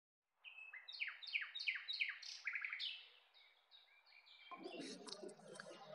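A bird chirping: a run of quick, downward-sweeping notes, about three a second, that die away after about three seconds, followed by fainter background noise.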